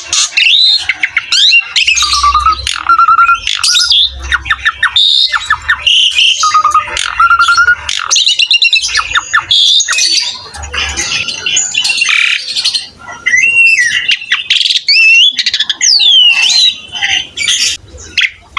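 Javan pied starling (jalak suren) in full, continuous song: a long run of whistled notes and pitch glides mixed with harsh squawks and rapid clicking rattles.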